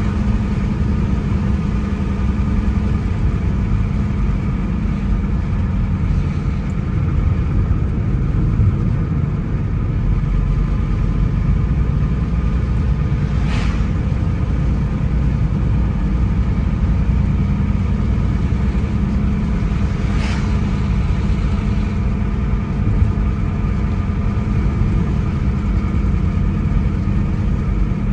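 Car driving at steady speed: continuous low road and engine rumble, with two brief sharper sounds about seven seconds apart.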